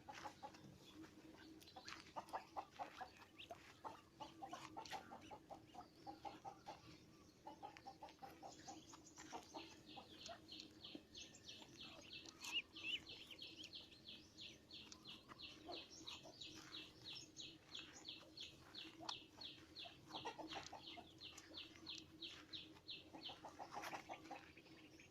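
Birds calling faintly. First come short low clucking notes, then a long fast series of high repeated chirps, several a second, that runs for over ten seconds before stopping near the end.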